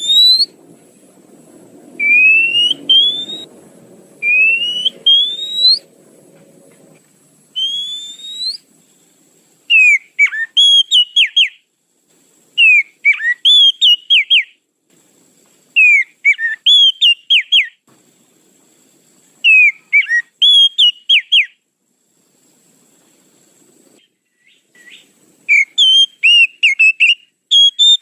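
Oriental magpie-robin (kacer) lure call: loud rising whistles of about a second each, then short phrases of quick falling notes repeated every three seconds or so, busier near the end.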